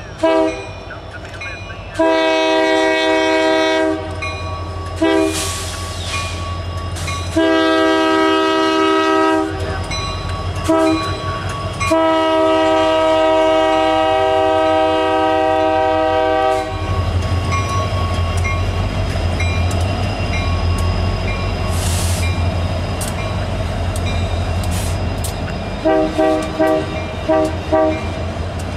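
Diesel freight locomotive's air horn sounding long, long, short, long blasts, the standard grade-crossing signal, followed by the low, steady rumble of the locomotive and train rolling past with wheel clatter. Near the end the horn gives a quick run of short toots.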